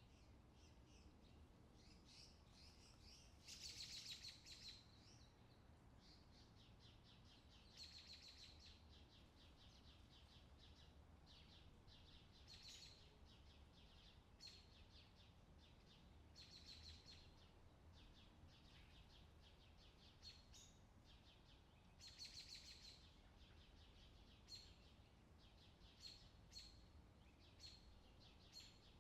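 Faint outdoor summer ambience: songbirds chirping and trilling in short phrases, a few louder trills among quick single chirps, over a faint low steady background rumble.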